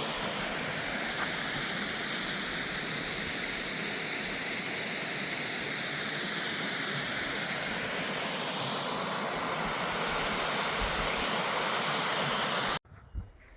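Waterfall rushing steadily: a dense, even hiss of falling water that cuts off suddenly near the end.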